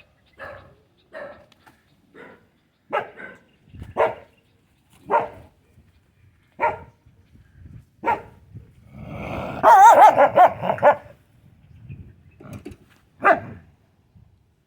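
A dog barking in single barks about once a second, breaking into a louder, rapid run of barks about two-thirds of the way through, then one last bark.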